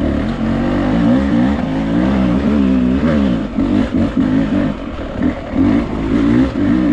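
Beta dirt bike engine revving up and down in quick, uneven throttle bursts, with brief drops in revs.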